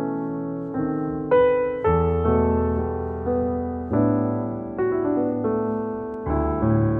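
Background music: a slow piano or electric piano piece, with notes and chords struck every half second to a second and fading between strikes.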